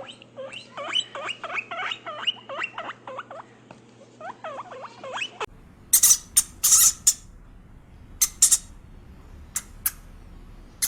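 Ducklings peeping in a rapid chorus of short high calls. About halfway through, the peeping stops abruptly and a few loud, sharp rustling noises follow.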